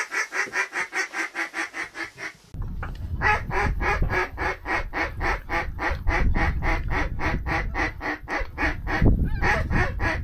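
Duck call blown in a fast, even run of quacks, about six or seven a second, with a brief break about two and a half seconds in. A low rumble comes in after the break.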